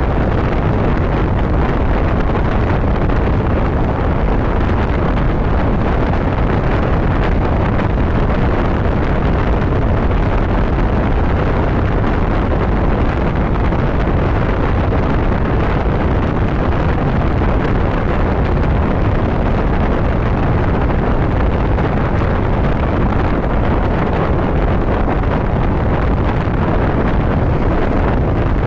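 Steady wind rushing over the microphone of a motorcycle riding at road speed, with the bike's running and road noise blended underneath, unchanging throughout.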